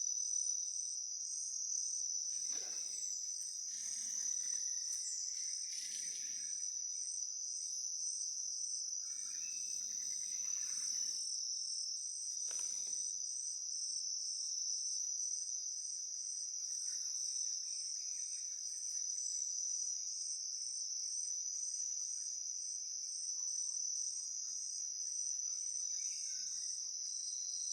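Rainforest insects calling without a break: one steady high-pitched drone, with a faster pulsing trill above it. A few brief rustles come in the first half.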